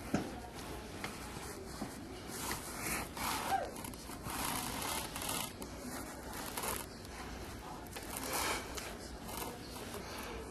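Snow crunching and scraping underfoot or in the hands, in irregular swishes about a second apart, with a sharp click just after the start.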